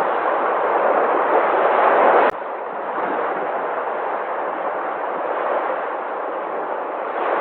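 Sea waves: a steady rushing surf, with one sharp click about two seconds in, after which it is a little quieter.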